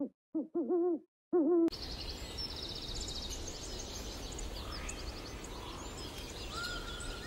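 An eagle-owl giving about four short hoots in quick succession, each bending in pitch. From about two seconds in, outdoor ambience follows: small birds chirping and trilling over a low wind rumble.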